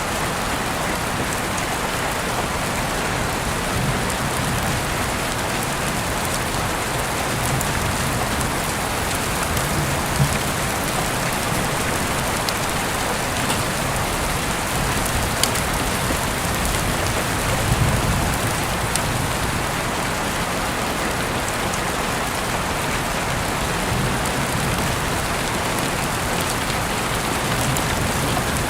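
Heavy rain falling steadily, heard through an open window, with scattered sharp drip ticks and a brief low rumble swelling about eighteen seconds in.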